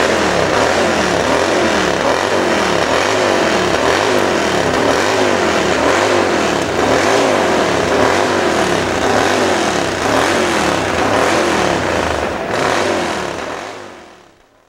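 Pro hillclimb motorcycle engine revving hard, its pitch rising and falling about twice a second. The sound fades out near the end.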